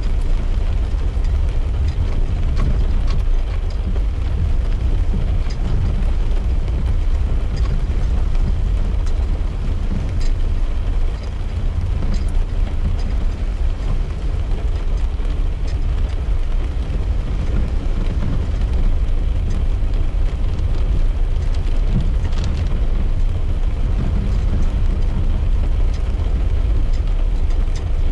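Car driving in rain, heard from inside the cabin: a steady low road and engine rumble, with scattered faint ticks of raindrops hitting the glass.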